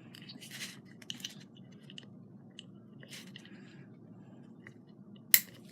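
Small rustling and scraping noises of craft materials being handled, with one sharp click near the end.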